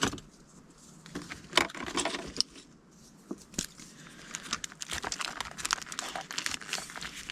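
Light clicks and clatter of coloured pens being handled and one picked out, mixed with paper rustling and scratching, the scratching busier in the second half.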